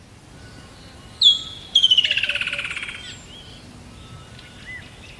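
Birdsong over a soft background hiss: a sharp whistled note about a second in, then a loud, rapid trill that falls steadily in pitch for about a second, with fainter chirps and calls behind it.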